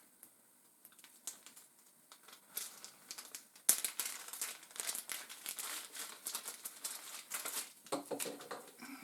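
Crinkly packaging being handled and pulled open, starting with a sharp snap about halfway through and then crinkling and rustling for about four seconds.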